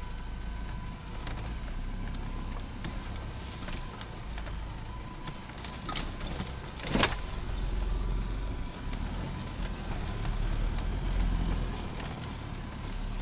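Off-road 4x4's engine running, heard from inside its cab, with small rattles and a sharp knock about seven seconds in; the engine grows a little louder in the second half.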